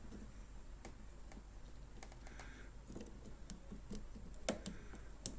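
Light clicks and taps of small metal parts and hand tools being handled while a retaining clip is fitted on a lawnmower's drive, with two sharper clicks near the end.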